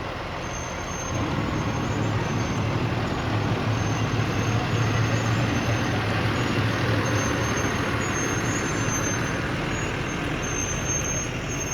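Fire engine's engine running with a heavy low rumble, growing louder about a second in as the truck moves off.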